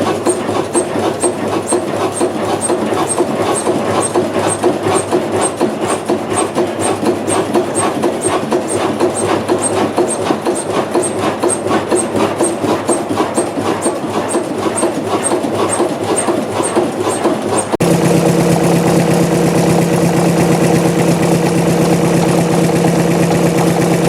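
Buch stationary diesel engine running with an even, slow beat of about two strokes a second. About 18 seconds in, the sound cuts abruptly to another engine running with a steadier, humming tone.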